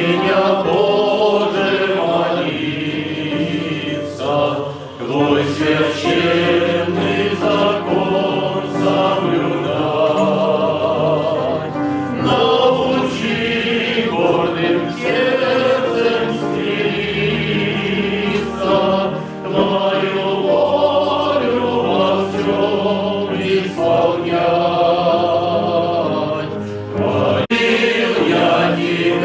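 Choir singing, sustained and continuous.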